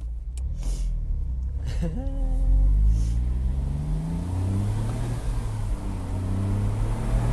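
Smart Roadster Brabus's small turbocharged three-cylinder petrol engine pulling under acceleration. Its note rises for the first few seconds, then drops about four seconds in and holds a lower, steadier pitch.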